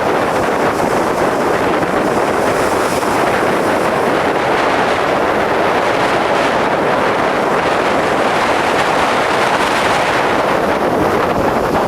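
Strong bora wind blasting across the microphone: a loud, steady rush of wind noise.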